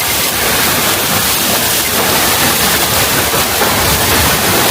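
Heavy downpour of rain: a loud, steady rushing hiss.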